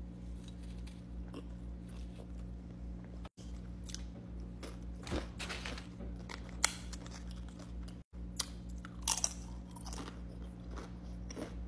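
Close-miked chewing of a burrito, with wet mouth sounds and a few sharp lip smacks in the second half.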